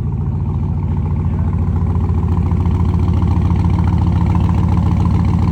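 Ram TRX's supercharged 6.2-litre V8 running near idle through a straight-piped exhaust, mufflers cut off and one open pipe per side, with a deep, steady pulsing exhaust note that grows slightly louder.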